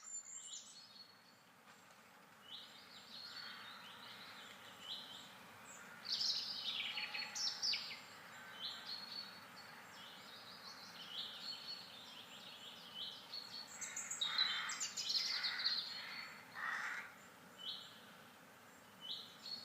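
Small birds chirping and singing, with many short high calls, some sliding down in pitch, over a faint steady hiss; the calls are busiest near the middle and again in the last third.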